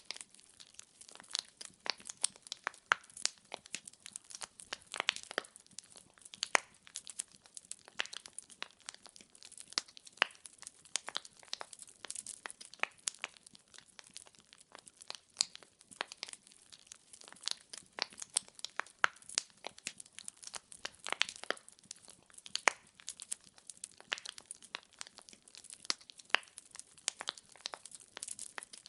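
Wood fire burning in a fireplace, the logs crackling and popping in a dense, irregular run of sharp snaps over a faint hiss.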